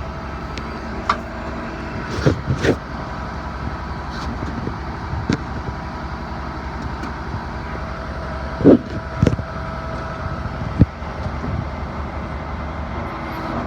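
Truck's 7.8-litre Isuzu Duramax diesel idling steadily, with a few short knocks and clunks on the truck body.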